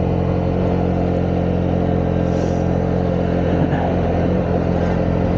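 Honda CB125R's single-cylinder 125cc four-stroke engine running at a steady, unchanging pitch.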